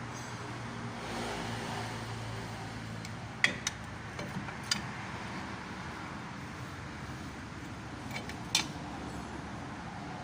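A few sharp metallic clinks and knocks of tools on rear drum-brake parts: a pair about three and a half seconds in, more just before five seconds, and a last pair near eight and a half seconds. They sound over a steady low hum of vehicle or traffic noise.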